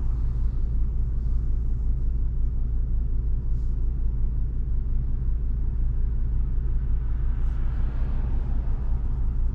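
Steady low rumble inside the cabin of a Volvo V70 2.5T under way: its turbocharged five-cylinder engine and tyre and road noise. A faint hiss swells briefly near the end.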